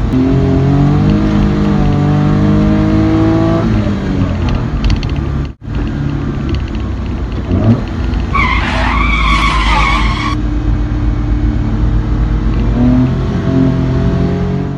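Small electric motor and gearbox of a WPL D12 RC pickup truck whining under throttle, the pitch shifting as it drives over rough ground. A louder, wavering high-pitched squeal comes in for about two seconds near the middle.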